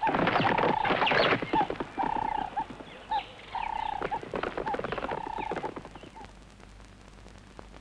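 Bird calls: a run of held whistled notes, each about half a second long, with short chattering flourishes between them, over a patter of clicks. They fade out over the last two seconds.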